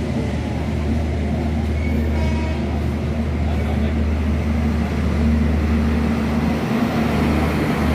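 A train running at a railway station: a steady low rumble with a constant hum.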